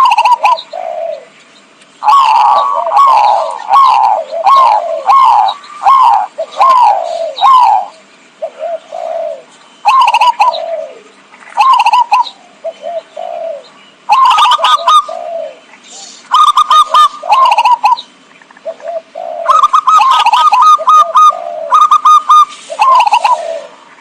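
Zebra dove (perkutut) lure calls: phrases of rapid staccato cooing notes, one longer run of about nine notes early on, then shorter phrases separated by brief pauses.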